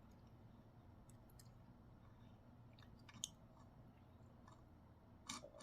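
Near silence: faint room hum with a few soft clicks, a sharper click about three seconds in and another near the end.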